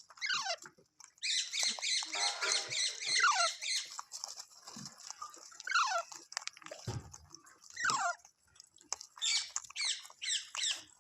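Green parrot calling: a run of short squawks that slide downward in pitch, with a longer harsh screech from about one to four seconds in.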